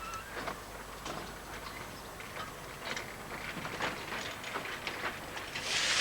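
Narrow-gauge steam locomotive and train moving slowly, with scattered light clanks and clicks. Near the end a loud hiss of escaping steam starts.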